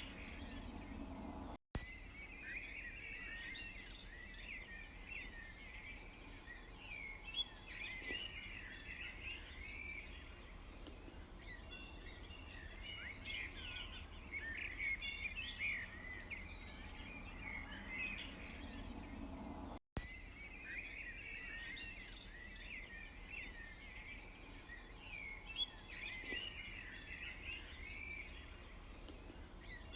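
A chorus of small songbirds chirping and twittering, many quick overlapping phrases, over a faint low background hum. It cuts out to silence for an instant twice, about two seconds in and again about twenty seconds in.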